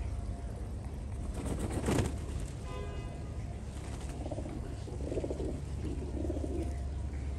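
Pet birds cooing: three low coos in the second half, after a short burst of noise about two seconds in and a brief higher call, over a steady low rumble.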